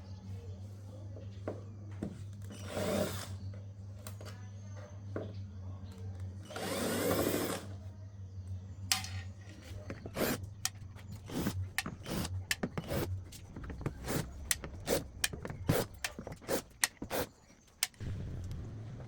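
A small power tool whirs briefly, twice, the second run louder with its pitch sliding, followed by a long run of sharp clicks and knocks of hard parts being handled, over a steady electrical hum that cuts out near the end.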